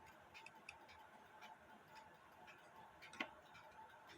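Faint ticking of an old mechanical alarm clock movement, about two ticks a second, with one louder click about three seconds in.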